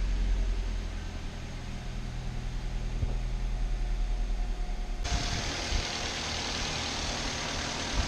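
Perodua Myvi 1.3's engine idling steadily, with its new throttle body sensor fitted. About five seconds in the sound changes abruptly to a louder hiss over the engine.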